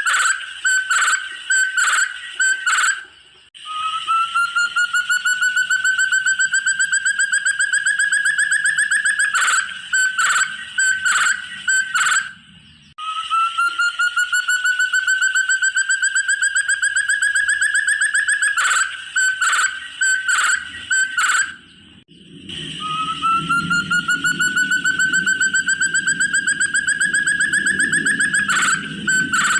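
Forest partridge (puyuh hutan) calling: a long, fast run of pulsed notes that climbs slowly in pitch for about five seconds, then a handful of short separate notes. The same phrase comes three times, roughly every nine seconds.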